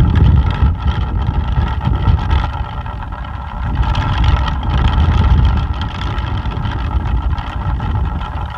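Plastic pinwheel spinning in strong wind with a steady whir, over a low rumble of gusts buffeting the microphone. The wind eases briefly about three seconds in.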